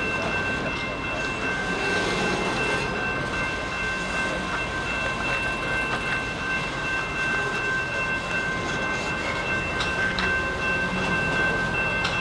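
Canadian Pacific freight train moving slowly, a steady rumbling noise with a constant high-pitched tone held throughout and a few faint knocks.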